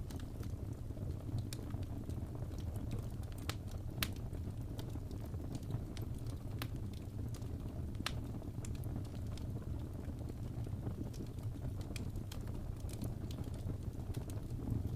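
Wood fire burning in a fireplace: a steady low rumble of flames with irregular crackles and pops, the sharpest about 4 and 8 seconds in.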